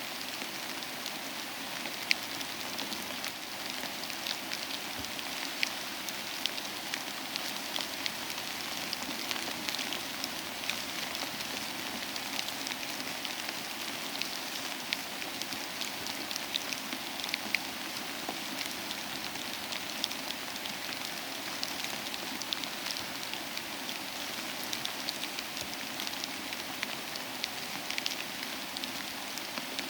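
Steady soft rain with a fireplace crackling, scattered sharp ticks and pops through the rain's even hiss.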